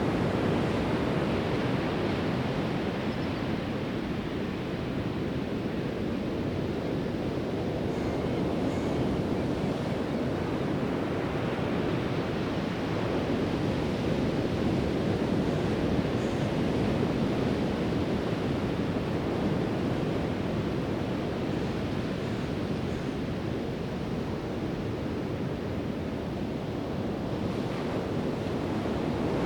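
Pacific Ocean surf breaking and washing on a sandy beach, a steady rushing that swells and eases slowly, with some wind on the microphone.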